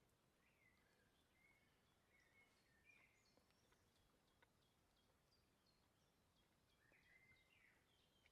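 Faint birdsong: short chirps and whistled notes, a burst of calls near the start, a run of repeated high notes in the middle, and another burst near the end, over a faint outdoor hiss.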